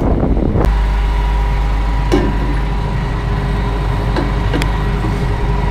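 Heavy farm diesel engine running steadily with a constant hum, and a few faint clicks.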